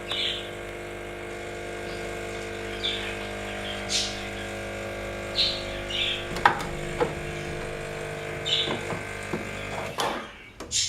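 Saeco MonteCarlo Automatica espresso machine running with a steady electric buzz that stops abruptly about ten seconds in. A few clicks and knocks come in the seconds before it stops.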